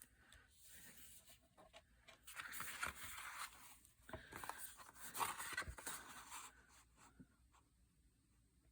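Paper and card stock being handled at a craft table: rustling and scraping in two spells of a second or two each, with a few light clicks.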